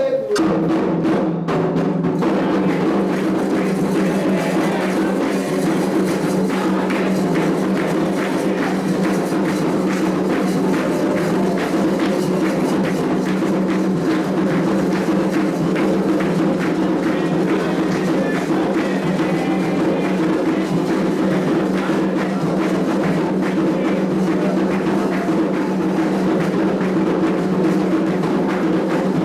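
Candomblé ritual percussion: atabaque hand drums played in a continuous, dense rhythm.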